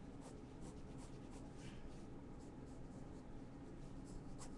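Faint scratching of short, irregular drawing strokes being made one after another over a low steady room hum.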